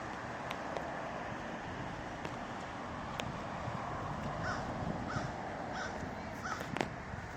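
A crow cawing four times in an even series over the second half, over a steady background hiss, with a few sharp clicks, the loudest near the end.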